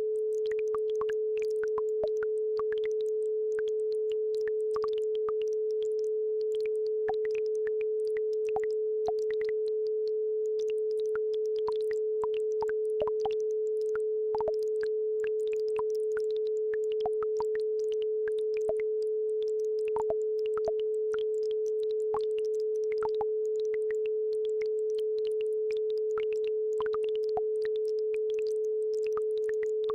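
A steady pure sine tone at about 432 Hz, held without change, with faint, irregular trickling and plinking of a babbling brook beneath it.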